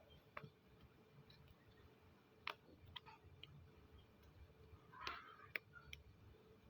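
Near silence broken by a handful of faint, sharp clicks, with a brief soft rustle about five seconds in.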